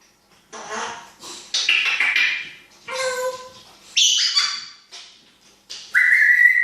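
African grey parrot vocalizing in a run of short squawks and mimicked sounds, ending in a whistle that rises and then holds about six seconds in.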